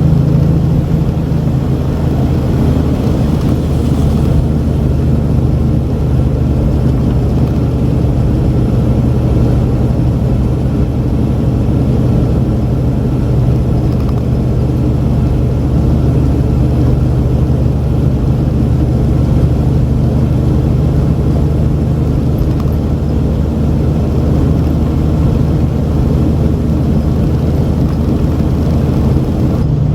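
Diesel semi truck engine running steadily at a held pitch, with a slight change in pitch near the start and again near the end.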